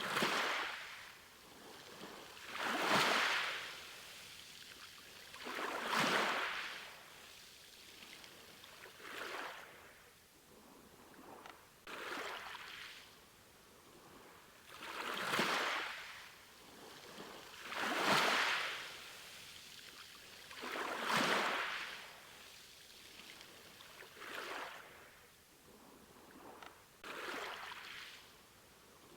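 Sea waves breaking and washing in a steady, even rhythm, one swell of surf rising and falling about every three seconds.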